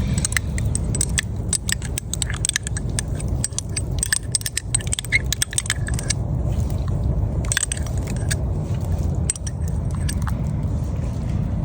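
Metal utensil clinking and scraping against a titanium camp pot as a stew is added to and stirred, with many sharp clicks over a steady low rumble.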